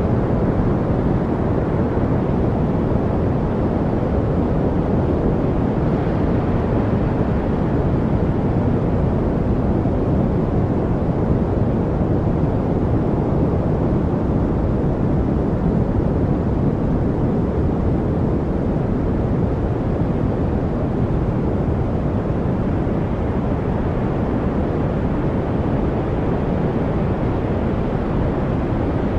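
Steady noise track of deep, even rushing sound with the high end rolled off, unchanging throughout and with no distinct events in it.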